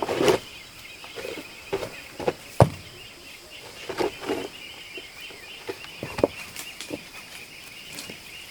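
Steady high chirring of insects, with irregular short knocks and thuds of hand work or footsteps over it, the sharpest about two and a half and six seconds in.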